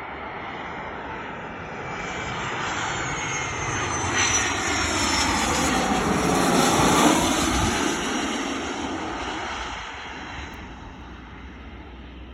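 A fixed-wing airplane flying past. Its engine noise builds to a peak about seven seconds in, the pitch falls as it passes, and then it fades.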